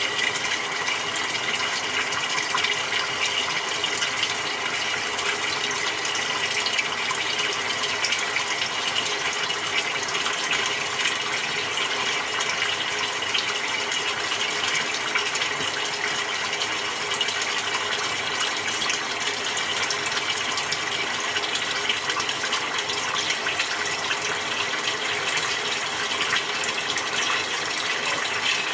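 Samsung 6.5 kg top-loading washing machine with water rushing steadily into the tub as it fills.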